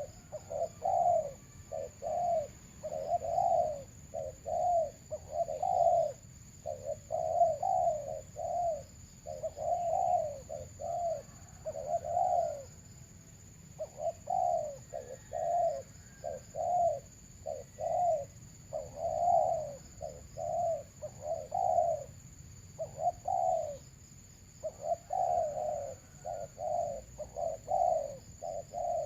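Doves cooing over and over: runs of short, low coos, several a second, in phrases broken by pauses of about a second.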